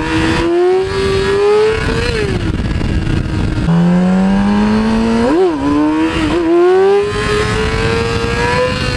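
2008 Yamaha R6 inline-four engine pulling hard through the revs, with wind rushing over the microphone. The pitch falls back about two seconds in and drops sharply at a gear change near four seconds, then comes a sharp rev spike about five and a half seconds in before it pulls up again.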